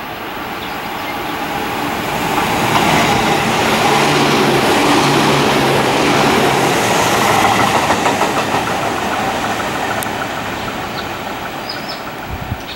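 Tobu 350 series electric train running past at close range. The sound builds over the first few seconds, is loudest in the middle as the cars go by, then fades away.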